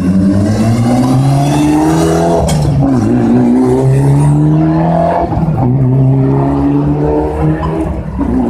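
Rally car engine accelerating hard through the gears. Its pitch climbs, drops sharply at an upshift about three seconds in and again about five seconds in, then climbs once more.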